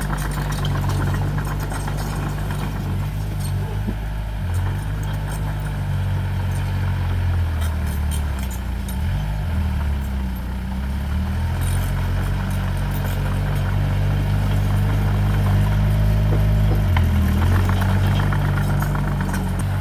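Diesel engine of heavy earth-moving machinery running steadily, its pitch dipping and shifting about eight to ten seconds in and again near seventeen seconds as the load changes, with scattered faint clicks over it.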